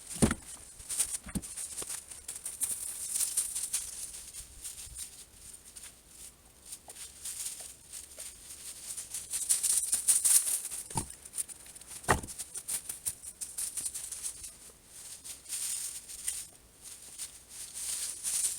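Irregular rustling and crunching noise that swells and fades, broken by a few dull thumps.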